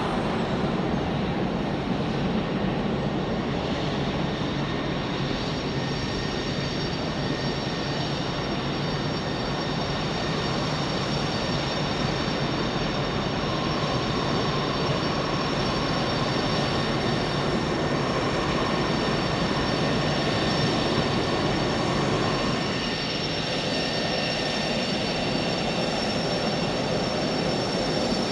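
Jet engine of a Saab JAS 39 Gripen fighter running steadily: a continuous jet noise with thin high-pitched whine tones over it.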